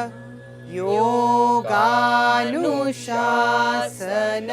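A voice chanting a mantra in several long, held phrases, sliding between notes, over a steady low drone.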